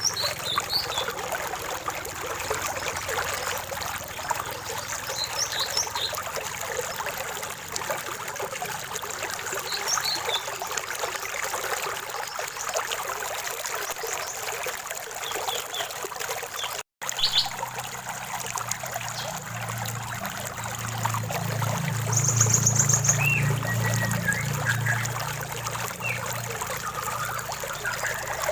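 Stream water trickling steadily, with scattered short bird chirps and calls over it. Past the middle the sound breaks off for an instant, then a low rumble swells for a few seconds under the water while a bird gives a quick trill.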